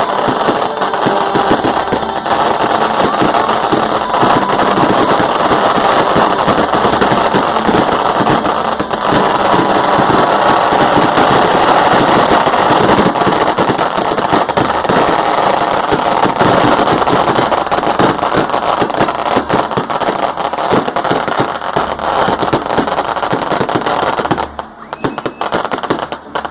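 Fireworks and firecrackers going off in a dense, continuous rapid crackle of bangs, like a rattle of shots, that drops away briefly near the end.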